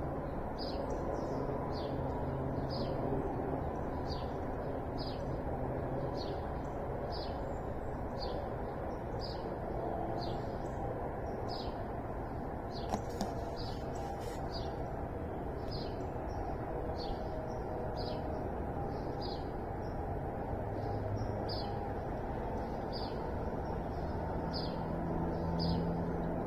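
A songbird repeating a short, high chirp that drops in pitch, a little over once a second, over a steady low background rumble. A brief crackle comes about halfway through.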